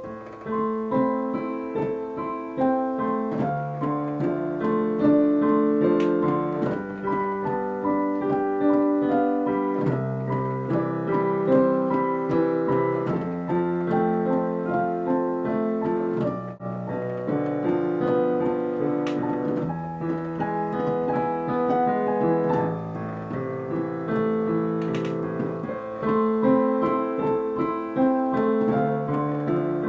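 Piano duet played four hands, a flowing repeated pattern of notes in the upper part over steady lower notes.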